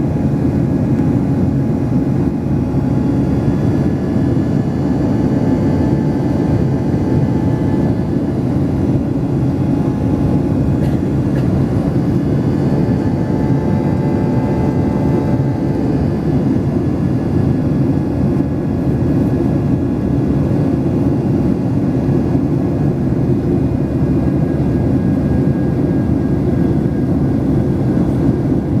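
Boeing 737-800's CFM56-7B jet engines and the airflow, heard as a loud, steady roar inside the passenger cabin, with a few faint steady tones over the low rumble.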